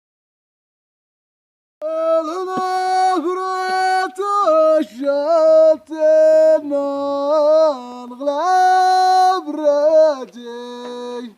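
About two seconds of silence, then a solo voice singing unaccompanied: long held notes joined by ornamented turns in pitch.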